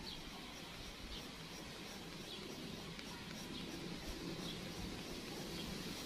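Small birds chirping faintly, short high chirps about once a second, over a steady background hiss.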